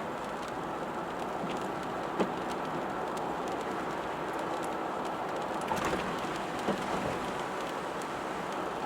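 Steady rain with scattered sharp raindrop ticks, over the steady noise of a car driving in the rain.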